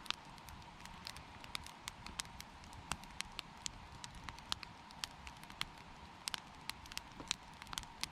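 Campfire crackling, with irregular sharp pops and snaps over a soft background hiss.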